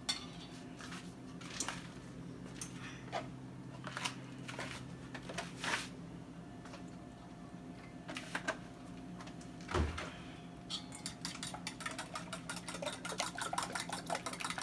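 Kitchen handling sounds: scattered clinks and knocks of dishes and utensils over a steady low hum. From about twelve seconds in, a quick, even run of ticks as a fork beats eggs in a bowl.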